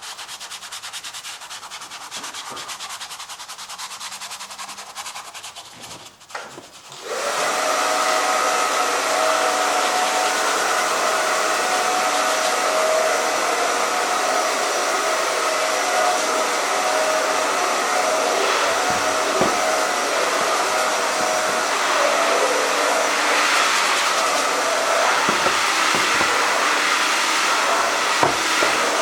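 Soft scratchy rubbing, then about seven seconds in a hair dryer switches on and runs steadily, a loud even blowing hiss with a motor hum, drying the acrylic paint.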